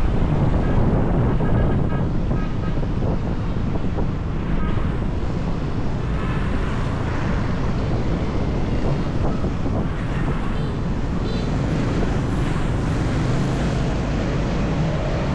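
Wind rushing steadily over the microphone of a moving motorbike, mixed with the bike's engine and road traffic noise.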